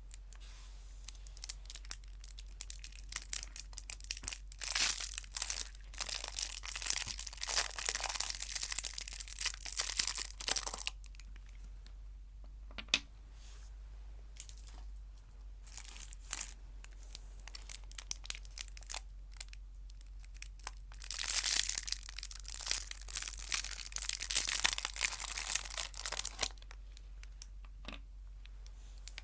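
Chocolate wrappers being crinkled and torn close to the microphone, in two long spells of dense crackling with only a few small rustles and clicks between them.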